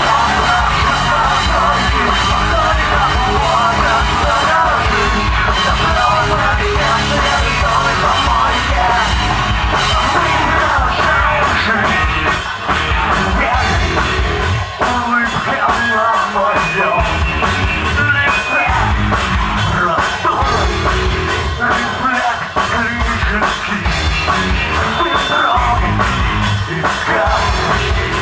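A live alternative rock band playing loud, with a drum kit driving the beat. About ten seconds in, the beat turns sharper and more even, with a crisp stroke on every beat.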